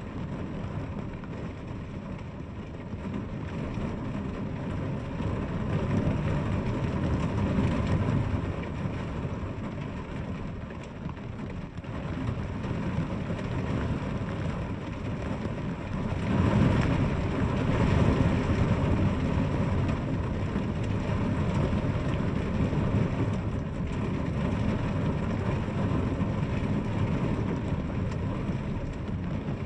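Steady rain, heavier low in pitch, swelling louder twice: once around seven seconds in and again around seventeen seconds in.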